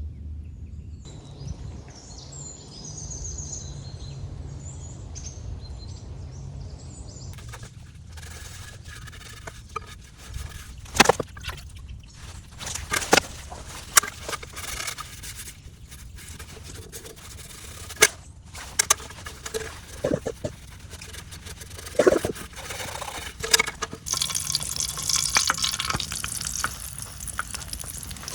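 Small birds chirping over a low rumble, then a series of sharp knocks and clatters from about seven seconds in, with a steady hiss starting near the end.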